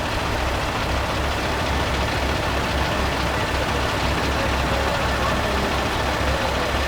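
Heavy diesel engine of a big-rig truck idling with a steady, low, pulsing rumble.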